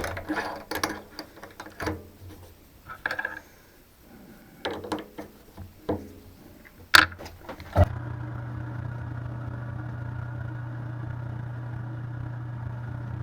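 Clicks and knocks of tooling being handled as a center drill is fitted for drilling. About eight seconds in, a machine's electric motor starts and runs with a steady low hum.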